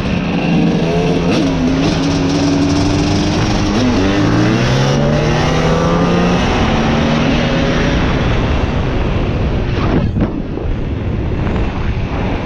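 Car engines running and revving, with a loud exhaust note that climbs in pitch about four seconds in, holds, then falls away.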